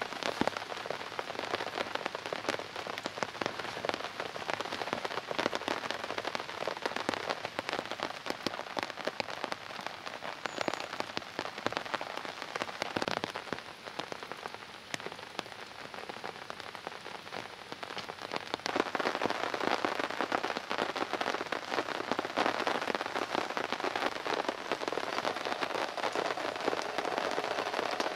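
Heavy rain falling steadily, a dense hiss of countless drops. It eases for a few seconds around the middle, then grows louder again.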